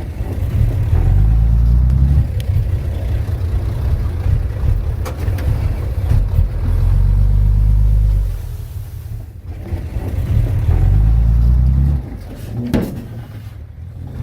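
Komatsu D31P bulldozer's diesel engine working under load, its sound swelling and easing off every few seconds as it pushes soil, with a few short metallic knocks.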